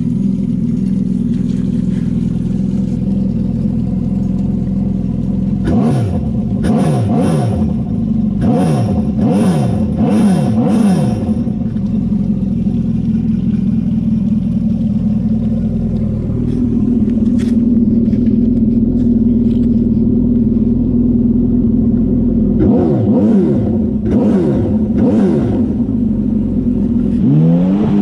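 Honda AquaTrax F-12X turbo jet ski engine with a custom straight-pipe exhaust, loud and unmuffled, idling steadily and then revved in quick throttle blips: a run of about six revs around six seconds in and another few revs near the end. Between the runs the idle settles slightly higher.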